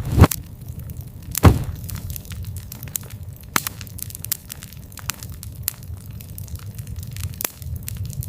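Wood campfire crackling, with frequent sharp pops and two louder pops in the first second and a half, over a steady low rumble.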